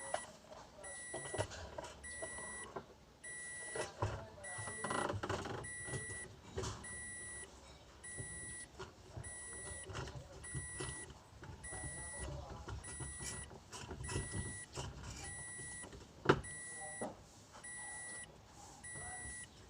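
An electronic beep repeating steadily about once a second, over scattered clinks, rattles and knocks of hand tools and parts being handled, with one sharp knock about sixteen seconds in.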